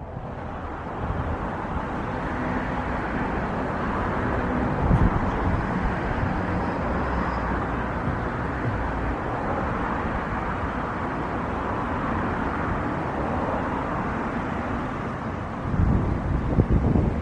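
Jet airliner engines running steadily with a faint high whine, while wind gusts buffet the microphone, once about five seconds in and again near the end.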